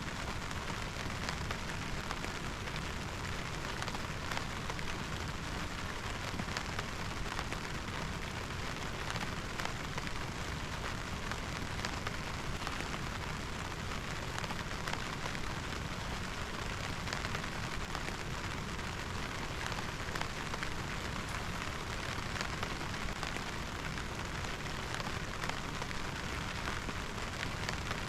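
Heavy rain falling steadily, with many close, sharp drop hits in it.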